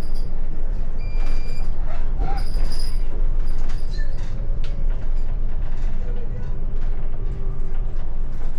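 Road noise heard inside a moving car's cabin: a steady low rumble with scattered light creaks and clicks.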